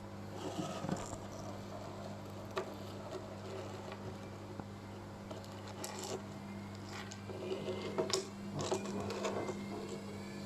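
A steady low hum with scattered clicks, knocks and short rustling sounds, like small objects being handled.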